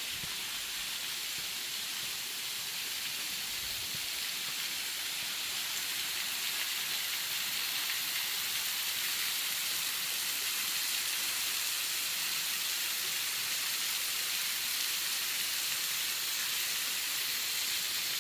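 Small waterfall with water falling and splashing, a steady rushing hiss that swells slightly over the first several seconds.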